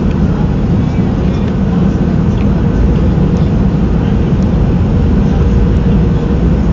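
Steady roar inside the cabin of a Boeing 737-300 in flight, a mix of its CFM56 jet engines and airflow, with a faint steady hum over it.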